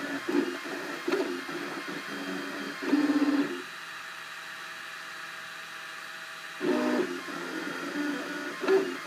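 Cubify 3D printer at work: its stepper motors whine and buzz in quickly changing pitches as the print head moves. For about three seconds in the middle the movement stops, leaving only a steady hum, then the stepping starts again.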